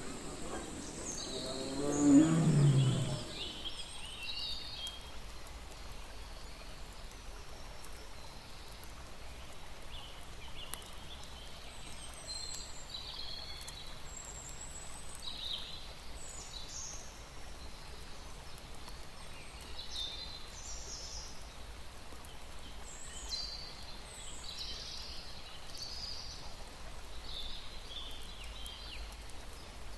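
A tiger's low growling call, the loudest sound, ending about three seconds in. After it come scattered short high bird chirps over a steady low background hum.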